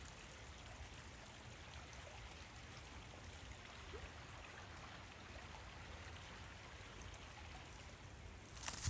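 Creek water running faintly as a steady, even hiss, with a low rumble underneath and a short sharp click near the end.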